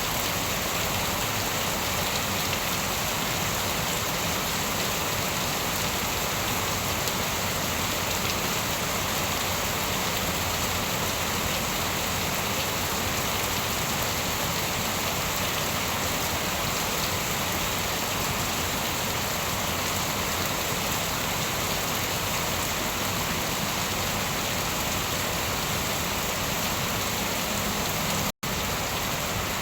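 Steady rain falling, an even hiss without any thunder. The sound cuts out completely for a split second near the end.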